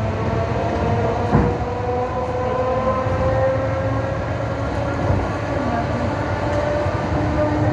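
Train running on rails with a steady rumble and a single sharp knock of the wheels about a second in. A whine slowly rises in pitch through it, as the train gathers speed.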